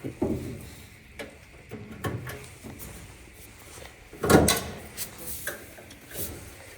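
Hard parts of a dryer being handled during repair: a series of clunks, knocks and scrapes, with one louder knock a little over four seconds in.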